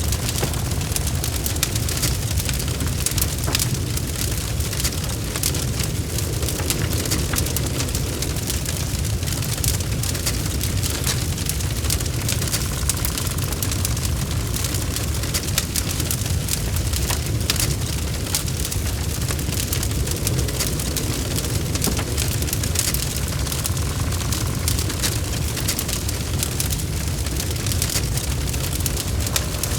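Wood logs burning in a fireplace: a constant low rumble of flames, with dense, irregular crackles and small pops throughout.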